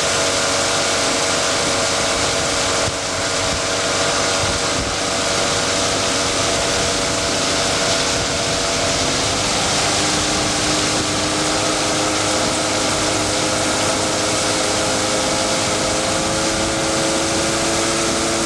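Outboard motor of a small boat running steadily under way, with wind noise on the microphone; the motor's pitch shifts about halfway through.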